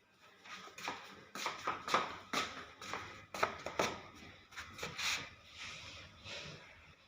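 A dog chewing a piece of cucumber: a run of irregular crunches, several a second, that thins out near the end.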